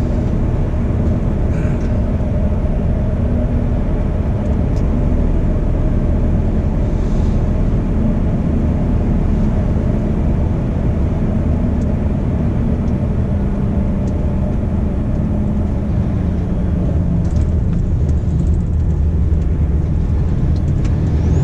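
Cab-interior sound of a 2011 Scania 480 dump truck's 13-litre straight-six diesel pulling the truck along: a steady low drone and rumble, the engine note easing down a little near the end.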